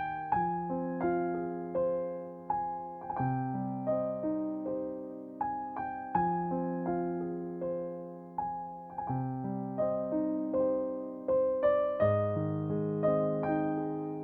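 Soft, slow piano music: single struck notes and chords that ring and fade, about two new notes a second, with deeper chords joining near the end.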